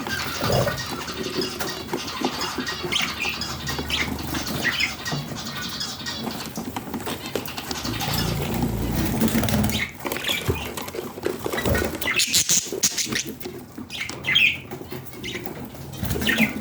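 Budgerigars chirping and squawking in short, irregular calls, mixed with scattered clicks and rustling.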